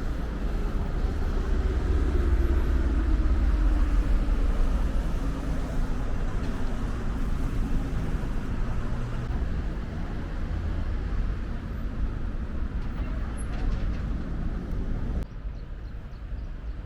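Road traffic passing: a vehicle's engine note falls slowly as it goes by, over a steady low rumble.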